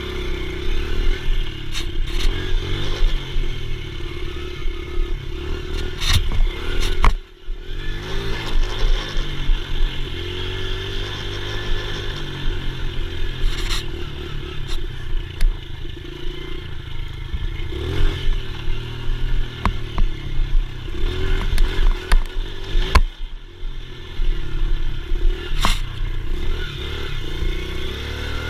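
Dirt bike engine running and revving up and down as the bike is ridden, with clattering and scraping over it. The sound drops out briefly twice.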